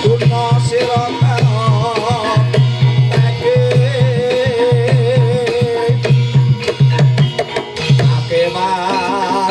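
Javanese gamelan music for a jaranan (kuda kepang) trance dance. Kendang hand drums play a quick, repeating pattern of deep strokes under a wavering melody line.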